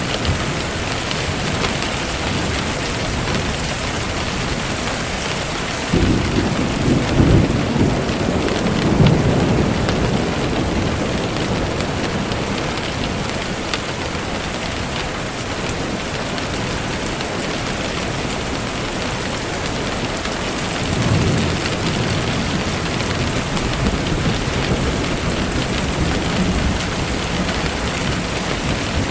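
Steady rain falling, with low rolls of thunder about six seconds in and again about twenty-one seconds in.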